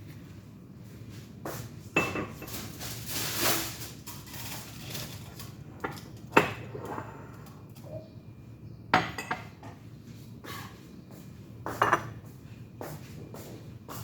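Dishes and cutlery clinking and knocking: four or five separate sharp clinks spread across the moment, with a short scraping sound about three seconds in.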